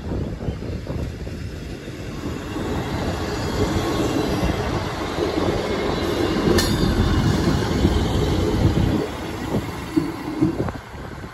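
A Class 158 diesel multiple unit passes close by over a level crossing. Its engine and wheels on the rails build to a peak as it goes by, with a sharp click about halfway through. Near the end the sound drops, and a few wheel knocks follow as the rear of the train crosses.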